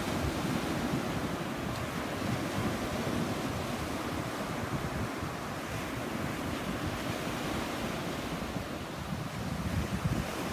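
Sea waves washing onto the shore in a steady wash, with wind buffeting the microphone, gusting harder near the end.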